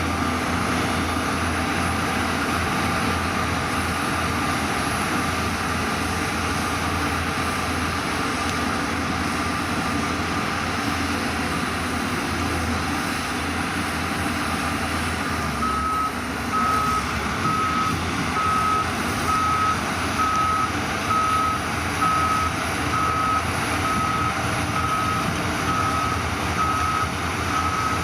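Diesel engine of heavy earthmoving equipment running steadily. About halfway through a reversing alarm starts, beeping about once a second.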